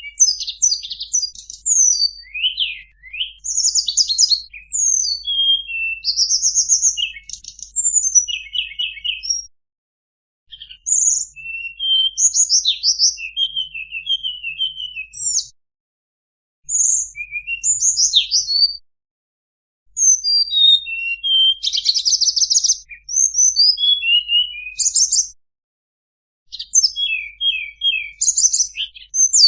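Tledekan bird song played as a lure call: rapid high-pitched chirps, trills and sweeping notes in phrases several seconds long, with short pauses between them.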